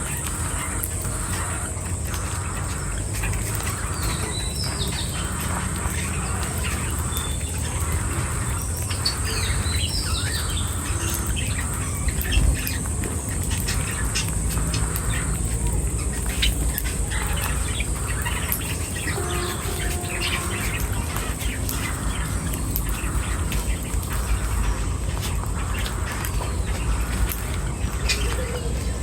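Birds chirping and calling: many short, high chirps mixed with repeated rough, squawky calls, over a steady high-pitched tone.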